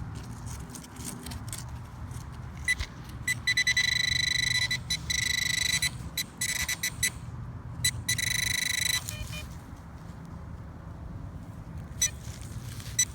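Blisstool Beast V6 metal detector sounding its buzzy target tone in several bursts as it passes over buried metal, with a low rumble of strong wind on the microphone underneath.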